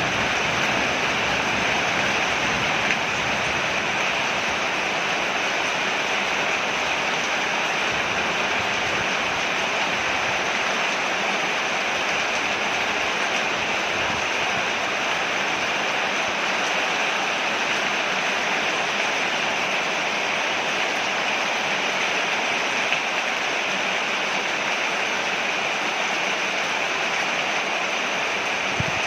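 Heavy rain falling on a porch: a steady, even hiss with no let-up.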